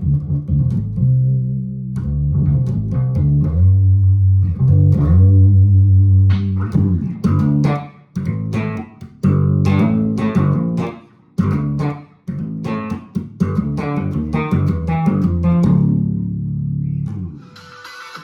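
Guitar being played: a run of low plucked notes and chords, broken by short pauses in the second half and dying away near the end.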